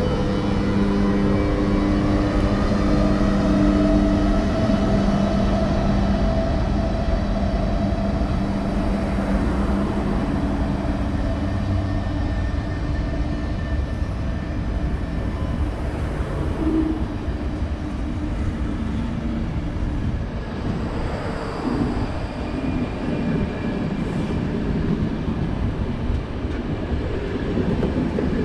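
A train moving at a railway station. Steady droning tones sit over a low rumble in the first half, and mostly the rumble is left in the second half.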